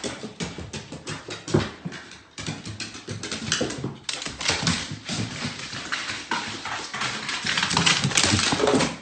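A dog, with a rapid, irregular clatter of short taps and clicks.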